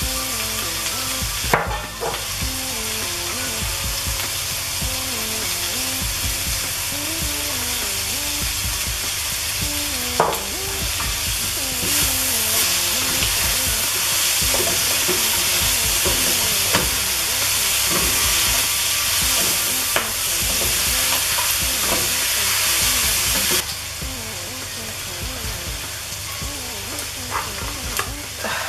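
Chicken pieces and spinach sizzling in a nonstick pot, stirred with a wooden spatula that knocks against the pan now and then. The sizzle quietens somewhat about three-quarters of the way through.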